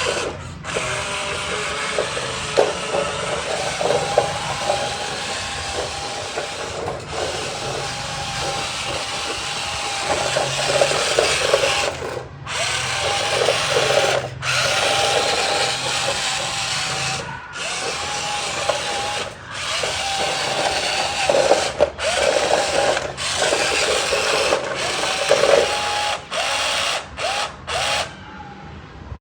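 Small electric motor whirring with a wavering whine over a gritty mechanical hiss, in stretches broken by many abrupt cut-offs.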